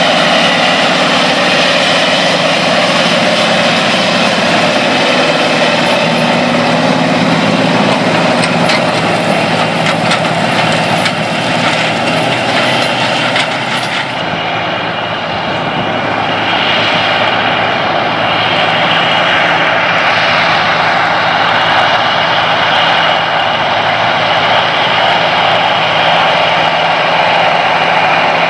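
Large John Deere tractor's diesel engine running steadily under a loud, even drone. A faint high whine stops about halfway through and the sound grows a little duller.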